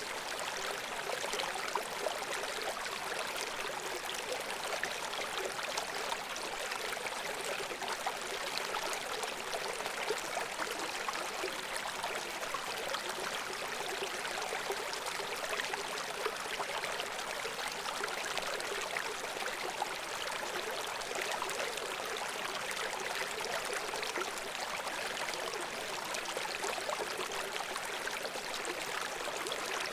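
Babbling brook: shallow stream water running over stones, a steady gurgling hiss full of small splashes.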